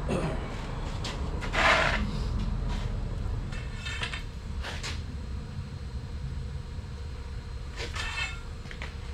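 Several short bursts of hand-tool and metal noise, the loudest about a second and a half in, over a steady low hum, as large steel bolts are worked loose.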